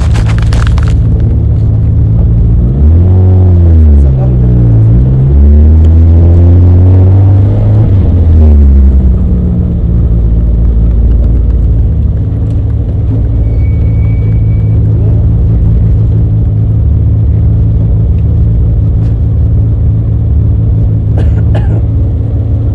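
Citroën AX rally car's engine idling, heard inside the cabin, with the revs rising and falling a few times between about three and nine seconds in before it settles back to a steady idle.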